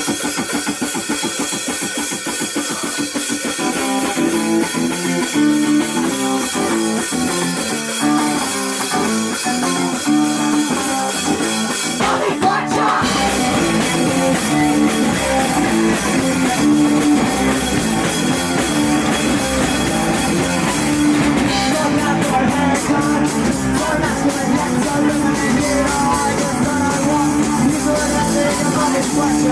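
A live rock band playing a song, with electric guitar and a drum kit. The music starts right away and gets fuller with a sharp hit about twelve seconds in.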